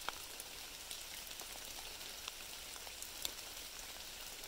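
Light rain falling on a woodland creek and the leaves around it: a steady soft hiss with scattered drip ticks.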